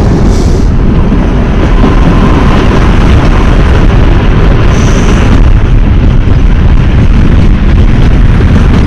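Kalka–Shimla narrow-gauge train hauled by a ZDM 3 diesel locomotive running: a loud, steady low rumble.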